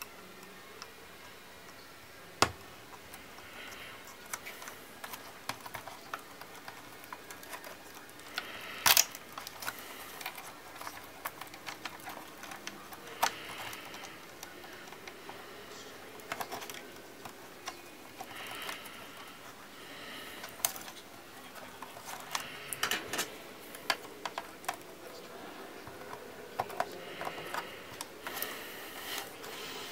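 Hands working on a laptop's parts: irregular small clicks, taps and light knocks of plastic and metal being handled, with sharper clicks about two and a half seconds in and around nine seconds.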